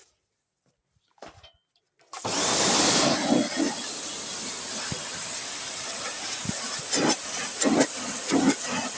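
Pressure washer switching on about two seconds in and spraying a steady hiss, with uneven spattering bursts as the jet hits the combine.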